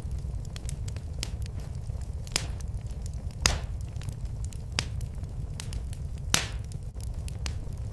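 Wood fire in a fireplace crackling: irregular sharp pops and snaps over a steady low rumble, with three louder pops scattered through.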